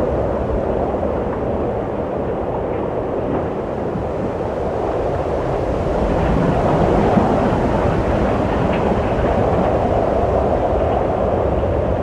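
Wind blowing steadily with a low rumble, swelling a little about six seconds in.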